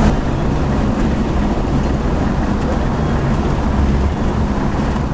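Muscle car cruising at highway speed: a steady low engine drone under road and wind noise.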